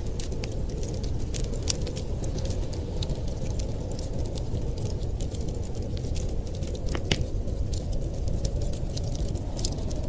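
Wood fire crackling with scattered sharp pops, one louder pop about seven seconds in, over a steady low rumble of winter wind.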